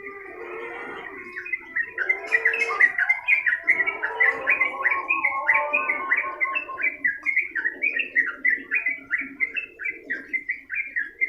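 Yellow-vented bulbul (trucukan) singing continuously: a long, rapid run of chattering notes, about three a second, starting about a second in, with a lower warbling underneath.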